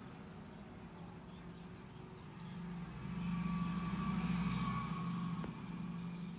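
A motor vehicle's engine, growing louder for a few seconds and then fading away, as a vehicle passes by.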